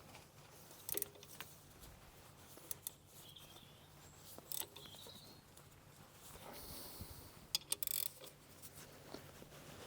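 Scattered metallic clicks and clinks of a spanner working on the alternator mounting bolts of a Kubota digger engine as the fan belt is tensioned. They come in short clusters of two or three, about a second in, then near three, four and a half, and eight seconds in.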